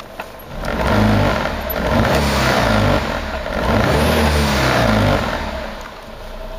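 Honda E07Z three-cylinder engine of a Life Dunk (JB3) revved up from idle in several surges, pitch rising and falling, then dropping back to idle near the end.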